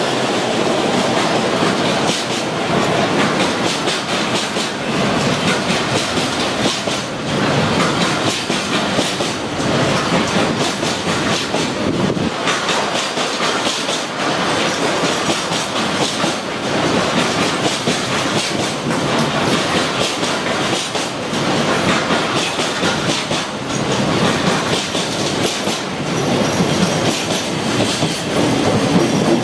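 Freight train passing close by, its wagons rolling continuously with wheels clattering over the rail joints.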